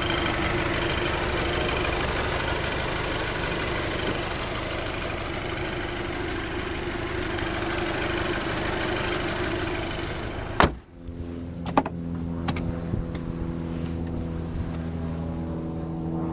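Turbocharged 2.0-litre four-cylinder engine of a 2008 Volkswagen GTI idling steadily, heard with the hood up. About ten seconds in there is a single sharp thump, after which the idle is quieter and smoother, with a couple of light clicks.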